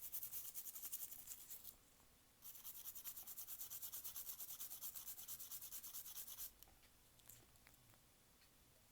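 A brush scrubbing back and forth over a circuit board, brushing off leftover rosin flux after soldering. It goes in quick, even strokes of about five a second, stops briefly, and starts again about two and a half seconds in for another four seconds. A few faint ticks follow.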